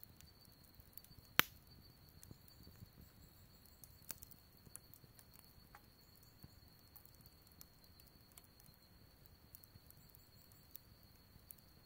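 Wood fire crackling faintly with scattered small pops, and one sharp loud snap about a second and a half in. A thin steady high whine runs underneath.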